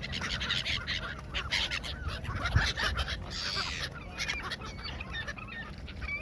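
A flock of gulls, geese and ducks being fed, calling over one another in many short overlapping cries, mixed with frequent short flutters and a rushing flurry about three and a half seconds in.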